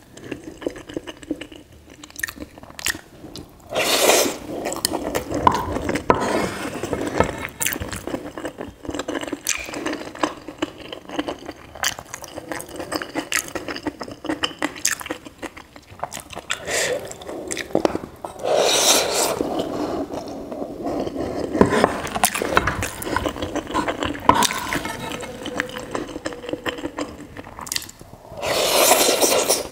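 Close-miked chewing and wet mouth clicks of someone eating soft, creamy macaroni, with a wooden spatula scraping the pan. There are three louder spells: about four seconds in, past the middle, and near the end.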